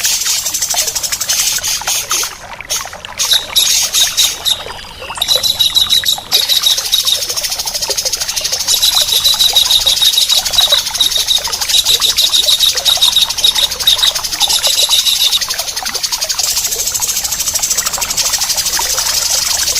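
Songbird masteran of rough, rapid rasping calls from tengkek udang and cucak jenggot, a harsh buzzing chatter with a high piping note that starts and stops several times through it.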